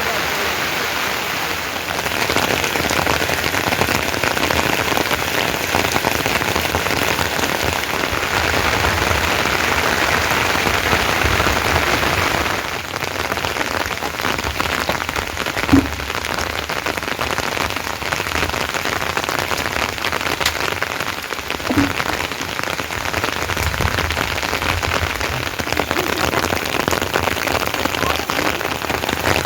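Steady rain falling and pattering on surfaces, a dense hiss of many small drop impacts. Two brief louder knocks stand out, one about halfway through and another a few seconds later.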